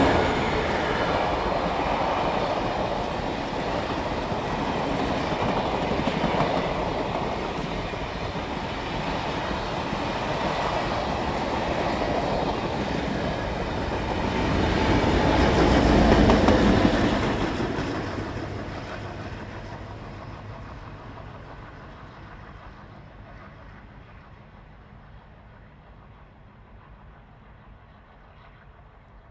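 Passenger train of stainless-steel carriages rolling past close by, its wheels running on the rails. It peaks in loudness a little past halfway, with a deeper rumble as the rear diesel locomotive goes by, then fades steadily as the train draws away.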